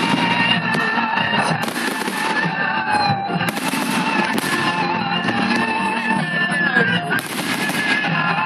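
Fireworks display going off: several sharp bangs about 1.5, 3.5, 4 and 7 seconds in, over continuous crackling and whistling, with music mixed in.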